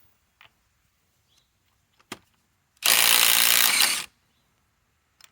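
DeWalt Atomic DCF921 cordless impact wrench hammering on a lug nut in one burst of a little over a second, with a few light clicks of handling before and after.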